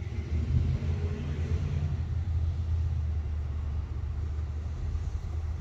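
Car engine idling with a steady, low rumble, heard close to the body of a 1965 Shelby GT350 tribute.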